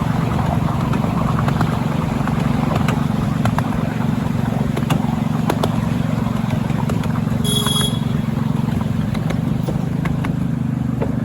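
A train running with a steady low rumble and scattered clicks, and a brief high squeal about three quarters of the way through.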